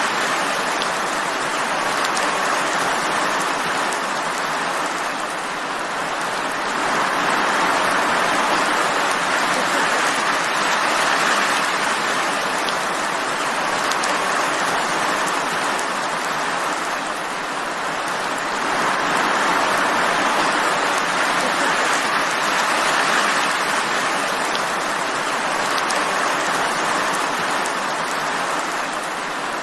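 Steady rainfall: an even hiss of countless drops that swells and eases gently every several seconds.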